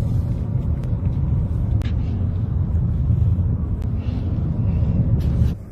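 Heavy, steady low rumble of a car driving, cutting off abruptly near the end.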